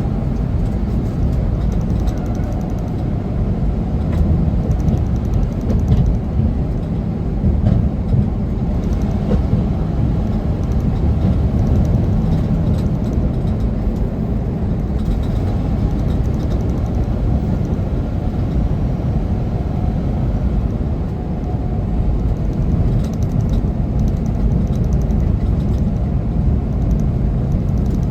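Semi truck driving uphill: a steady low rumble of the diesel engine and road noise.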